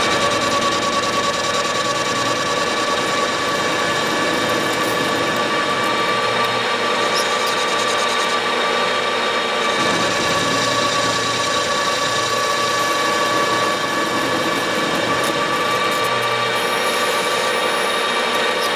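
A Precision Matthews PM1236 metal lathe running steadily with a high gear whine while a round-nosed tool takes an interrupted cut across the crooked, hacksawed end of 6061 aluminium bar to true it up.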